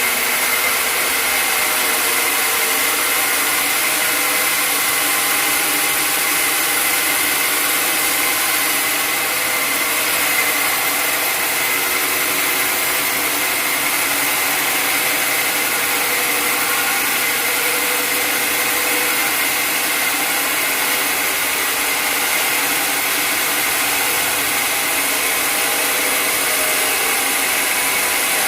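Sawmill machinery running steadily at an even level, a dense mechanical noise with a faint high whine held throughout.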